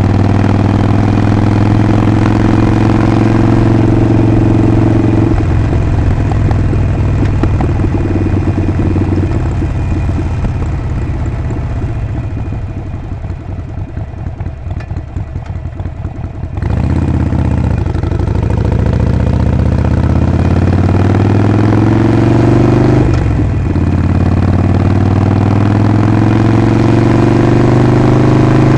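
Harley-Davidson Sportster Forty-Eight's 1200 cc air-cooled V-twin running on the road. It runs steadily, then backs off the throttle about five seconds in and coasts quieter for about ten seconds. It then opens up again, and the pitch rises through a gear, dips briefly at an upshift and rises again.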